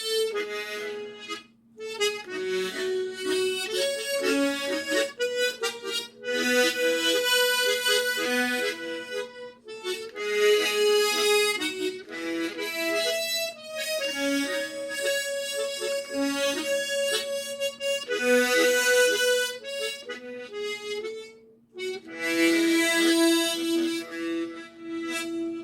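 Harmonica playing a slow, tuneful melody with chords, in phrases separated by brief breaths.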